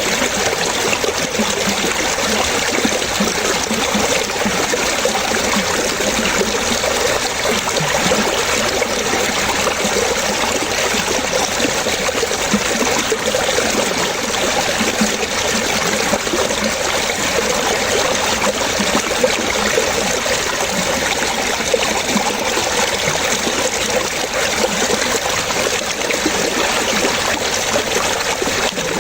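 Water trickling and splashing steadily, like a small stream or brook running over stones.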